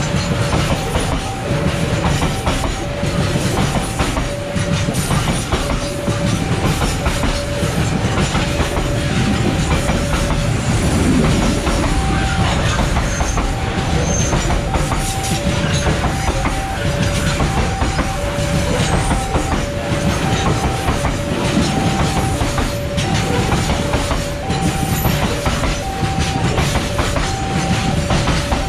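Open coal hopper wagons of a long freight train rolling past close by, their wheels rumbling and clacking over the rail joints. Under it a level-crossing warning alarm sounds without pause, a higher and a lower tone alternating about once a second, the signal that the crossing is closed while the train passes.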